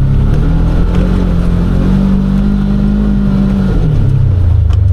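Side-by-side UTV engine revving hard as it is driven up a hill through deep snow: the engine note climbs over the first two seconds, holds high, then drops back about four seconds in.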